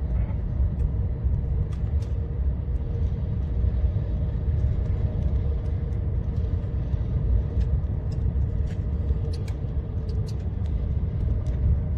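Steady low engine and road rumble inside the cab of a moving vehicle driving on a snowy road, with a faint steady hum above it.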